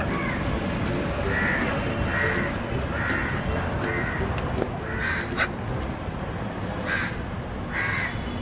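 A series of short bird calls, about one a second, over a steady low background noise, with a sharp click about five seconds in.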